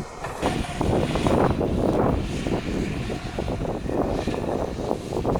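Sodi RT8 rental kart engine running on track, a rough, uneven noise that gets louder about half a second in, with wind buffeting the microphone.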